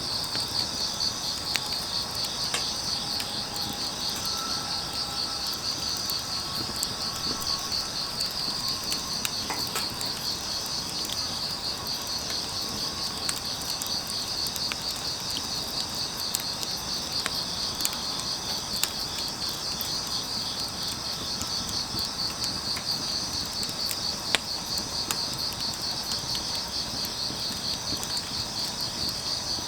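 Grass insects, crickets, chirping in a steady, fast pulsing trill, over a soft hiss and scattered sharp crackles from burning firewood.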